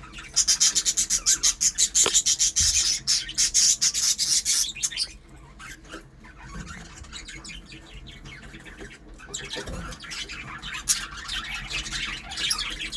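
Lovebirds chattering with rapid high-pitched chirps, loud and dense for about the first five seconds, then softer, scattered chatter.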